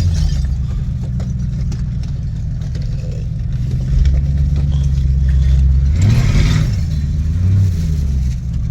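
The fuel-injected 5.0 V8 of a 1986 Lincoln Town Car running steadily as the car is driven. About six seconds in it revs up briefly and settles back, with a smaller rise shortly after.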